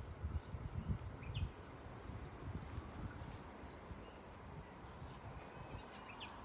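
Quiet outdoor ambience with a few faint, short bird chirps. Low rumbling bumps on the microphone in the first second and a half, then a faint steady hiss.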